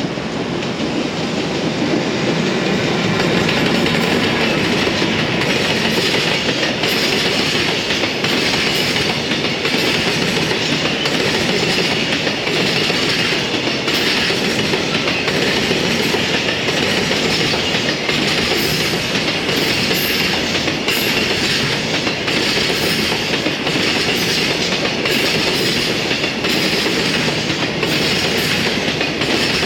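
Freight train behind a JR Freight EF210 electric locomotive rolling past, a steady loud rumble of wagons with the wheels clicking regularly over rail joints.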